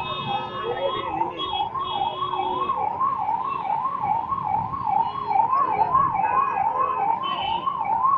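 Fire engine siren wailing rapidly up and down, about two to three sweeps a second. A vehicle horn sounds over it at the start and stops about a second in.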